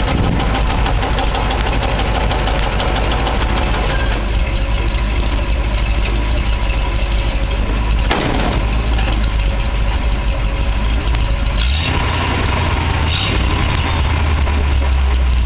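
1968 International Harvester 1300 dump truck's engine running steadily while the dump bed is being raised. About twelve seconds in, the engine note deepens and gets louder.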